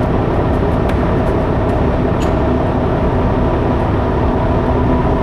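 A heavy vehicle's engine running steadily: a loud, even rumble with faint steady hums.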